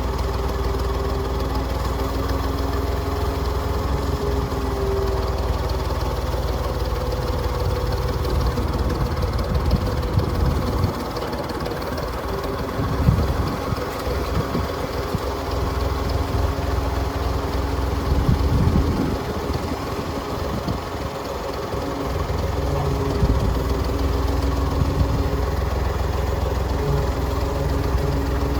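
Massey Ferguson MF40 tractor's engine running steadily, its level shifting a few times partway through.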